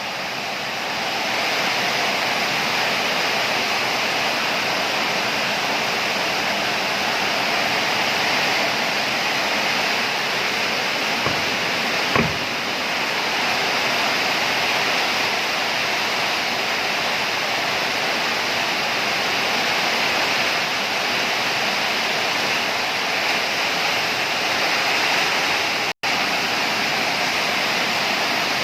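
Heavy storm rain pouring down with strong wind, a loud steady rush of noise, with a single brief knock about twelve seconds in.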